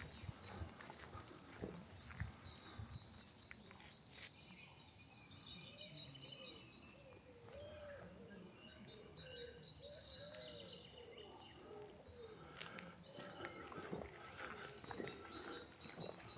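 Several songbirds chirping and trilling in the evening, with footsteps on the path near the start and again near the end. Through the middle a separate, lower call repeats in short arching notes.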